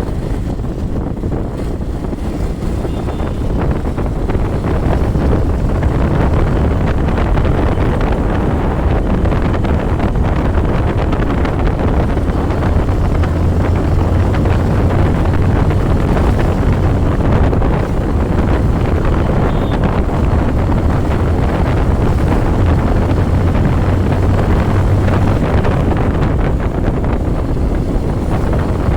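Motorcycle engine running at a steady road speed under heavy wind noise on the microphone, getting louder about four seconds in.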